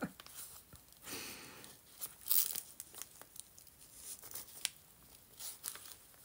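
Paper rustling and crinkling as the journal's pages are handled and turned, with a few light ticks, the loudest rustle about two and a half seconds in.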